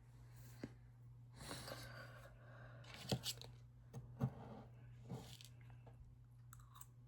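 A person chewing a brownie, slow mouth sounds with a few sharp smacks or clicks around the middle and short noisy bursts between them. A steady low hum runs underneath.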